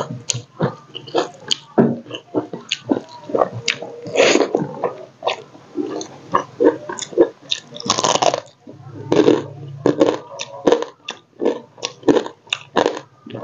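Close-miked mouth sounds of eating fried crab curry with rice: a steady run of wet chewing clicks and crunches, with two longer, louder crunching stretches about four and eight seconds in.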